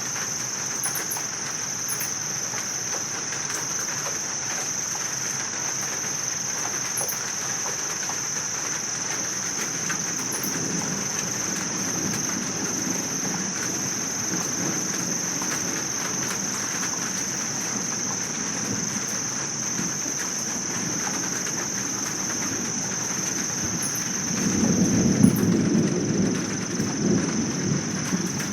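Thunderstorm: steady rain under a continuous high insect trill, with thunder rumbling low about ten seconds in and again, louder, near the end.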